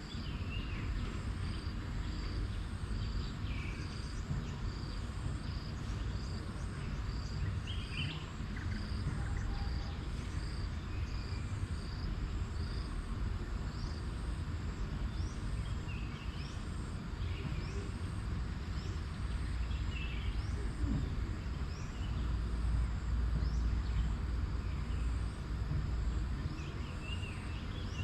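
Rural nature ambience: birds chirping on and off, a high chirp repeating evenly about once a second, over a steady low rumble that swells for a few seconds near the end.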